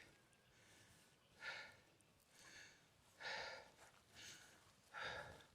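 A man's faint breathing: about five soft breaths, a second or so apart.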